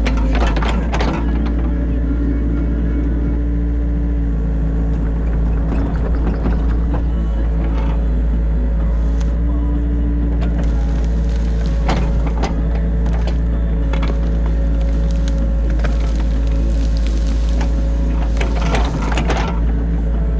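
Excavator's diesel engine running steadily, heard from inside the cab, with one note in its hum dropping out and returning as the machine works. Bursts of clattering and scraping from the digging come about a second in, around twelve seconds, and again near the end.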